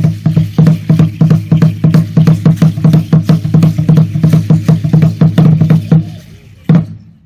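Drum beaten in a fast, even rhythm, about four to five strokes a second, with a low pitched ring. The rhythm stops about six seconds in, and one last stroke follows shortly after.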